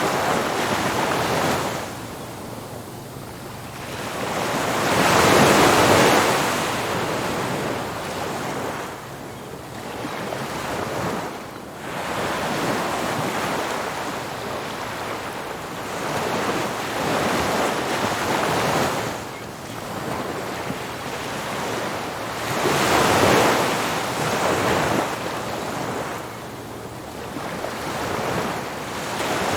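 Ocean surf breaking on a beach: a wash of noise that swells and fades as each wave comes in. The biggest breakers come about five seconds in and again near the end, with smaller ones between.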